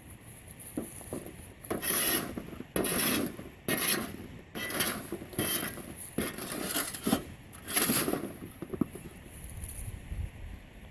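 Charcoal being scraped and shifted around a metal pot: about eight quick, gritty scraping strokes one after another, with lighter scratching before and after.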